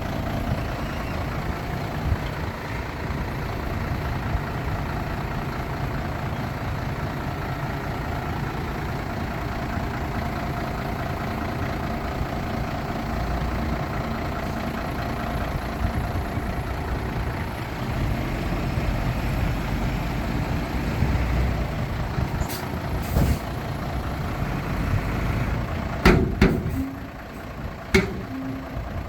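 Heavy diesel earthmoving machinery running steadily with a low engine rumble. Near the end there are a few short, sharp hisses and knocks.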